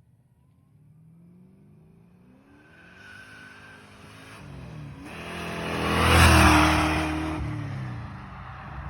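A 1989 Ford Mustang GT Fox body's stroker V8, fitted with a ProCharger and long-tube headers, accelerating hard. The engine pitch climbs and drops back at least once as it shifts up, and the sound grows louder to a peak about six seconds in, then fades as the car goes by.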